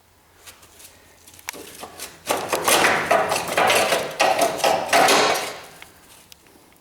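Hammering on a Corvette's front suspension to free a part: a quick, dense run of metal strikes and clatter lasting about four seconds, starting about a second and a half in.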